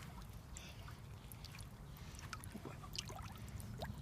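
Faint steady low rumble with scattered soft ticks and small clicks.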